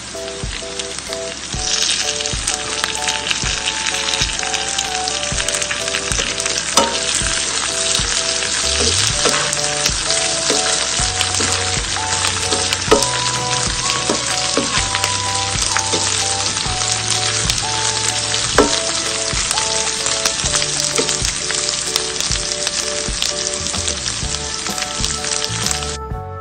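Pork pieces with onion, garlic and green chilies frying and sizzling in hot oil in a pan. The sizzle gets much louder about two seconds in and stops abruptly near the end.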